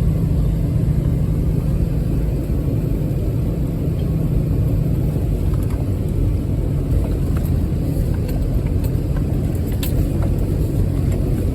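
Off-road 4x4's engine running steadily as it drives along a rough trail, a continuous low rumble with a few light knocks and rattles.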